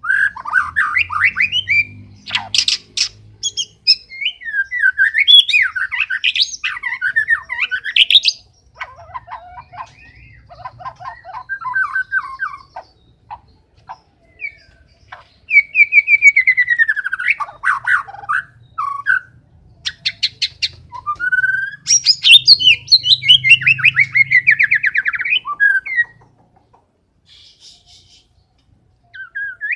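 White-rumped shama (murai batu) singing hard: a long, varied stream of loud whistled slurs, fast trills and chattering notes in quick phrases with short pauses, falling quiet for a few seconds near the end.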